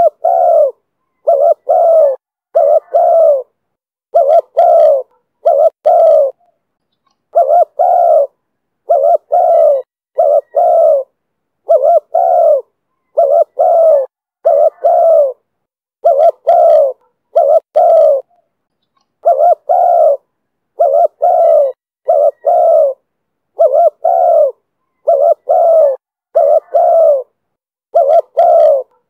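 Spotted dove cooing in the call style Vietnamese keepers call 'thổ thúc bổi': a steady run of short coos, one about every half second, in small groups with brief pauses between.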